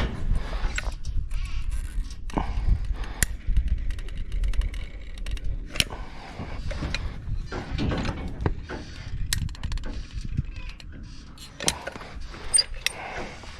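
Irregular small clicks, taps and knocks of hands handling tools and vent parts, over a steady low rumble.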